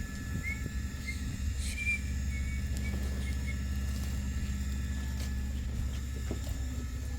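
Steady low machine hum, with several short high bird chirps in the first three seconds.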